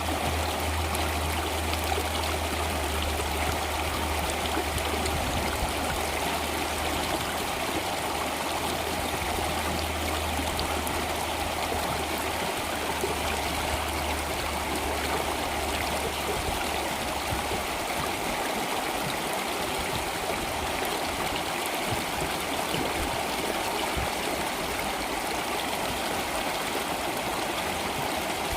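Flowing water rushing and trickling steadily, like a stream. A low rumble underneath fades out about two-thirds of the way through.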